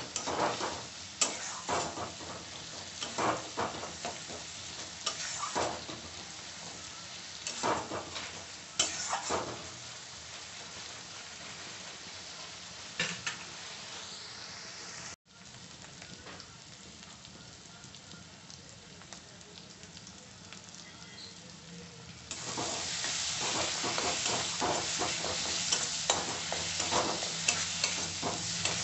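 Onion, garlic and ginger masala sizzling in a wok while a spatula scrapes and stirs it in separate strokes. After a sudden break about halfway, it sizzles more quietly, then louder with fast, dense stirring near the end.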